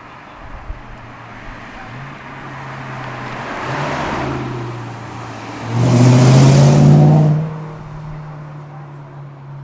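Sports car engines at a car meet: an engine drones steadily underneath while one car drives past, building and fading around four seconds in. Then comes a loud burst of hard acceleration, the engine note climbing for about a second and a half before it backs off.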